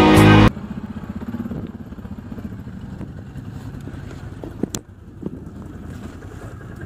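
Music cuts off about half a second in. A motorcycle engine then runs with an uneven low rumble, and one sharp knock comes about two-thirds of the way through.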